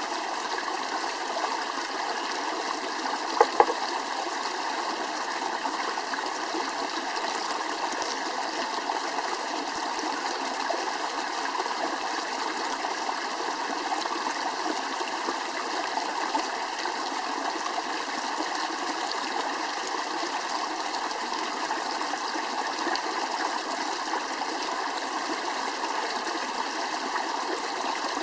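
Steady rushing of a flowing stream, with two sharp clicks about three and a half seconds in.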